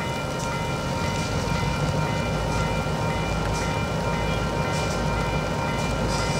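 Diesel freight locomotive and train running, a steady low rumble with steady high-pitched tones held over it.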